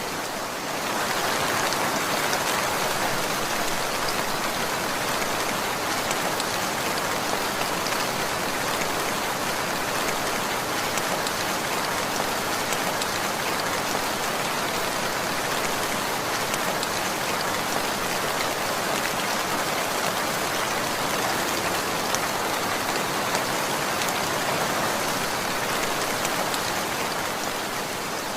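Steady rainfall, a dense even hiss of rain falling on surfaces.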